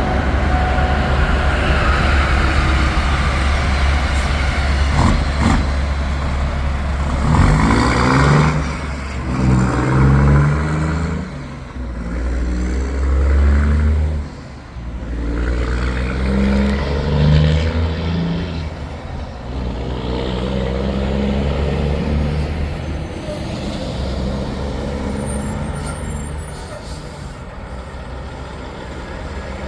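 Big-rig diesel trucks running past, the low engine sound steady throughout, with louder swells of engine note about a third of the way in and again near the middle.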